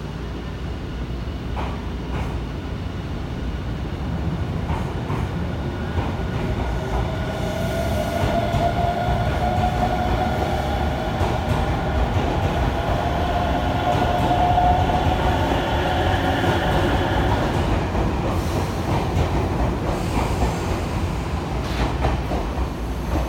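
Nankai electric train running on the station tracks: a steady rumble with a few clacks. A high whine swells in about seven seconds in and fades out near eighteen seconds, as the train passes loudest.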